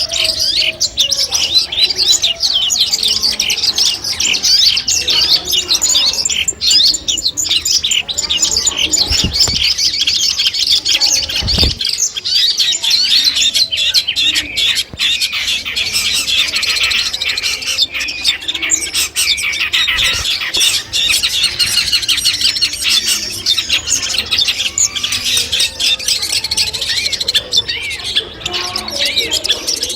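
Long-tailed shrike (cendet) song: a dense, unbroken stream of rapid high chirps and twittering trills.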